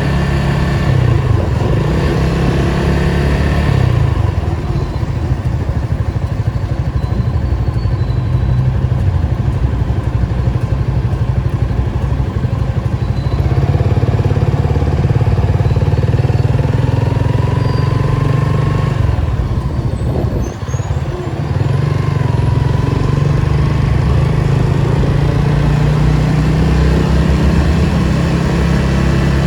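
Datsun 280Z's 2.8-litre straight-six engine running under way, its revs rising and easing with the throttle, with a brief drop about two-thirds of the way through.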